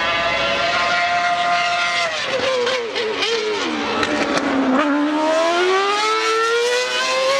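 Formula One car engine at high revs, its pitch dropping over a couple of seconds as it slows, then climbing steadily again as it accelerates.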